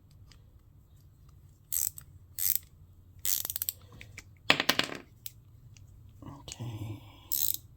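Small engine parts and tools being handled on a workbench: a scattered series of short clicks, scrapes and rattles, with a brief run of rapid ticking in the middle.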